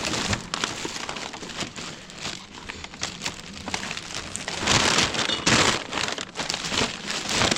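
Plastic rubbish bags rustling and crinkling as items are rummaged through and pulled out, louder in a stretch about five seconds in and again near the end.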